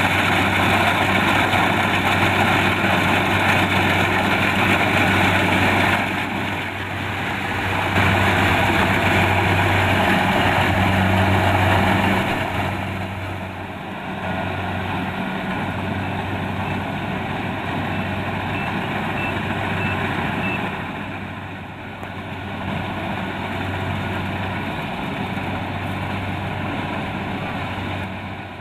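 Kubota DC-70 Plus rice combine harvester running under load, a steady diesel engine hum under the rattle and rush of the threshing machinery; it grows quieter about halfway through. A faint row of short high beeps sounds about two-thirds of the way in.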